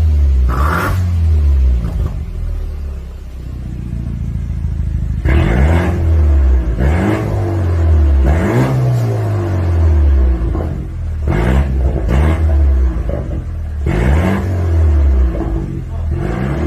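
BMW F30 320i's turbocharged four-cylinder engine revved again and again through an aftermarket valved full exhaust with a sport resonator. Each blip climbs quickly in pitch and then falls back slowly. There is a lower, steadier stretch near the start before the blips come in quick succession.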